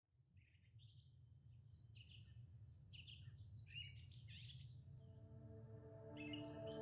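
Birds chirping and singing in short calls, fading in over a low steady rumble; about five seconds in, soft sustained music tones swell in beneath them.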